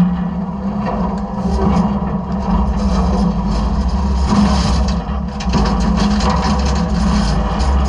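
Side-loader garbage truck's engine and hydraulics running with a steady hum, with repeated clattering and knocking of trash and debris in the hopper, busiest in the middle.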